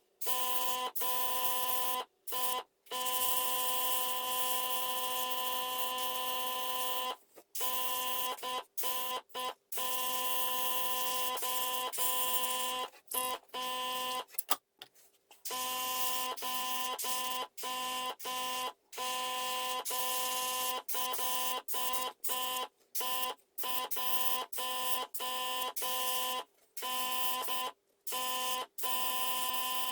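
A small electric motor running with a steady hum and a hiss, switching on and off many times in short runs, with more frequent stops near the end.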